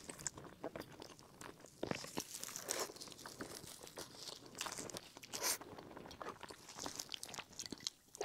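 Close-miked chewing of a bite of purple-rice bread, with the crinkle of a thin disposable plastic glove as the gloved hand handles the food. The sounds come as faint, scattered crackles and rustles.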